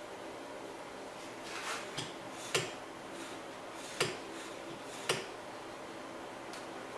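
Metal parts of a Dremel drill press stand being handled, giving about five separate light clicks and knocks spread over several seconds.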